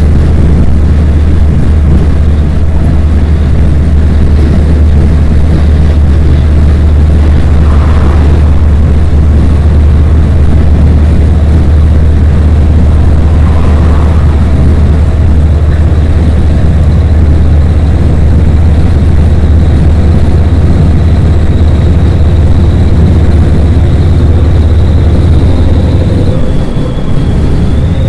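Loud, steady low rumble of heavy trucks driving at motorway speed, with no change in engine pitch.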